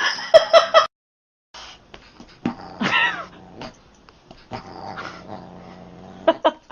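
A pet animal growling and giving a short sliding call, with sharp knocks and clicks. The loudest knocks come in the first second, just before an abrupt cut to silence.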